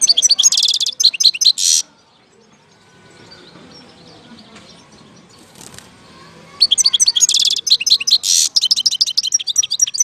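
European goldfinch singing: two bursts of rapid twittering and trills, one at the start lasting about two seconds and a longer one beginning about two-thirds of the way through, with a quiet pause between.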